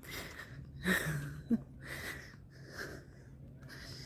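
A person breathing audibly while walking, a noisy breath about once a second, with a short low hum about a second in.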